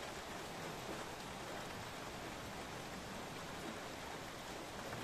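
Steady rain falling during a night thunderstorm: an even, unbroken hiss with no thunder in it.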